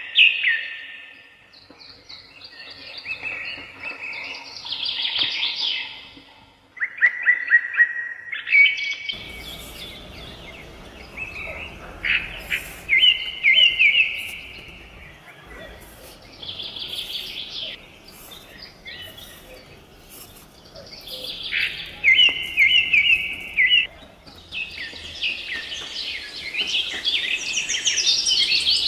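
Birds chirping and singing in short repeated phrases, one song after another.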